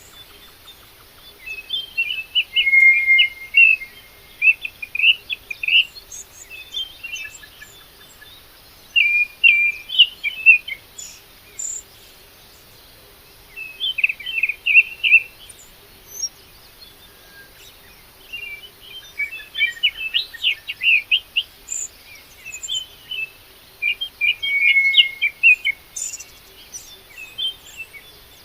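Songbird singing: short bursts of rapid chirping and twittering notes, in clusters every few seconds with brief pauses between.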